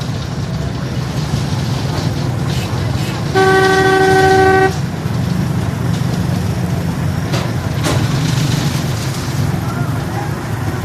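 A steady low engine rumble, cut across a little over three seconds in by one vehicle horn blast lasting just over a second.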